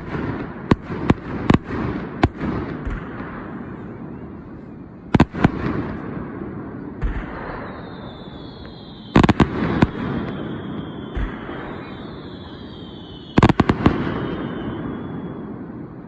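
Aerial fireworks bursting: clusters of sharp bangs, several in the first two seconds, then again about five, nine and thirteen seconds in, each followed by a long rolling echo.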